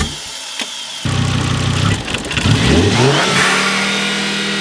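Turbocharged Volvo engine revving: it runs steadily for a moment, then climbs in pitch about two and a half seconds in and holds at the higher revs.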